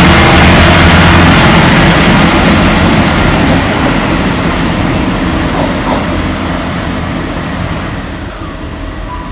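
Class 158 diesel multiple unit drawing away: its underfloor diesel engines and wheels on the rails, loud as the last coach passes, then fading steadily as the train recedes.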